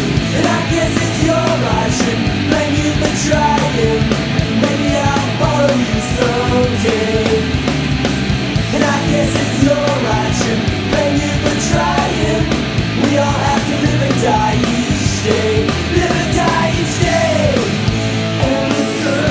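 Loud punk rock song playing through an instrumental passage: a band with drums and cymbals keeping a steady beat under a lead melody that bends up and down in pitch.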